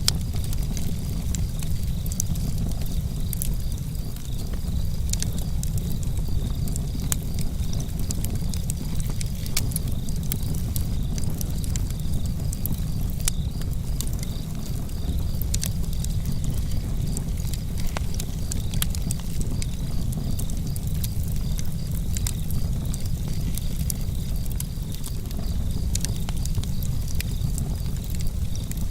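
Campfire crackling: frequent sharp pops and snaps of burning wood, irregularly spaced, over a steady low rumble.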